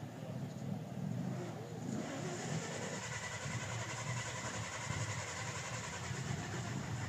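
A car engine running, its sound picking up about two seconds in and then holding steady.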